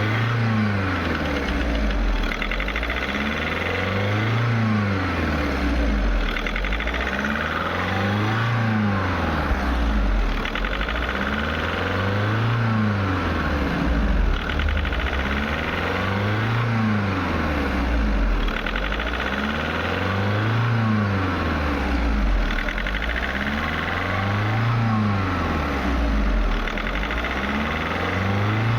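VW Polo diesel engine running by itself, its revs rising and falling evenly about every four seconds: the engine control unit cycling the speed during the injector minimum-quantity adaptation.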